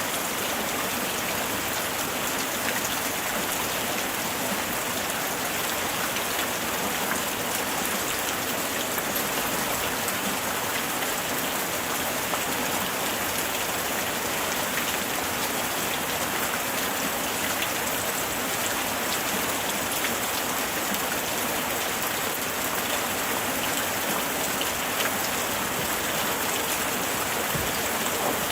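Light rain falling steadily: an even hiss with many small, sharp drop ticks throughout.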